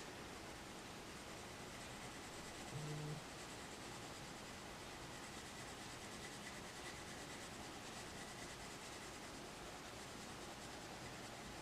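Faint, steady scratching of a coloured pencil shading over paper. About three seconds in, a short low tone sounds for about half a second.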